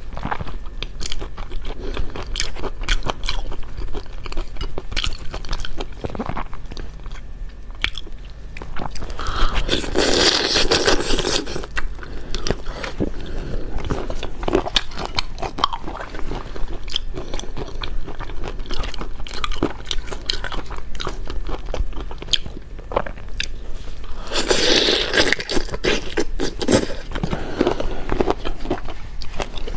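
Close-miked eating: a person biting and chewing with wet crunching and clicking, and two louder stretches of crunching, about ten seconds in and again about twenty-five seconds in.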